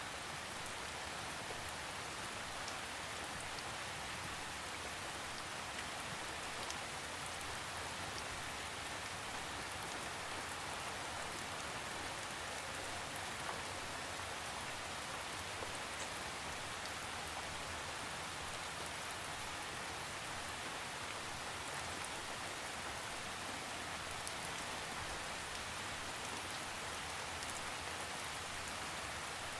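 Steady rain falling and pattering on surfaces, an even hiss with occasional individual drop ticks and no thunder.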